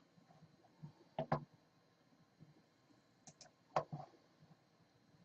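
Faint computer mouse and keyboard clicks: a few scattered ones, a pair about a second in and a small cluster between three and four seconds in.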